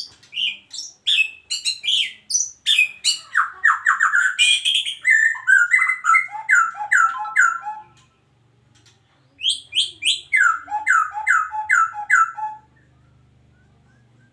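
Male white-rumped shama singing loudly: a long run of rapid, varied whistled phrases. After a pause of about a second and a half comes a shorter phrase of repeated down-slurred notes.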